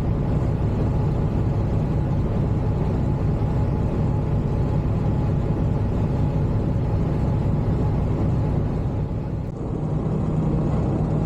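Semi-truck diesel engine idling steadily with a low rumble.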